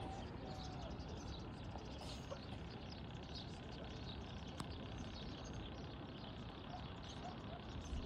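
Small birds chirping over a steady low background hum, with one sharp click about four and a half seconds in.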